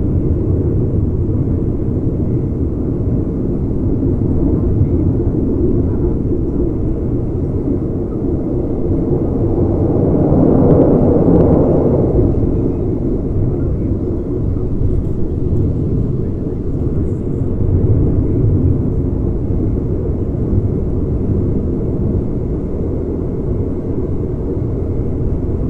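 Passenger train carriage running at speed, heard at an open window: a steady low rumble of wheels on rail and wind rush. It grows louder and brighter for a couple of seconds about ten seconds in.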